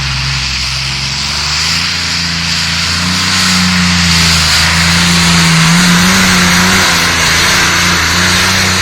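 Pulling tractor's engine running hard at full throttle during a pull. It is loud and steady, and its pitch rises a little through the middle before settling back.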